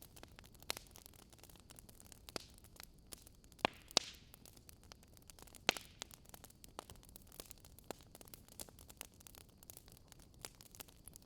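Wood fire crackling: irregular sharp snaps and pops over a faint steady hiss, with a few louder pops near the middle.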